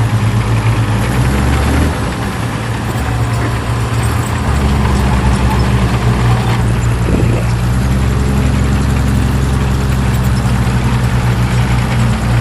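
Heavy diesel engine of earthmoving machinery running steadily. Its deepest note fades from about two seconds in and comes back about four and a half seconds in.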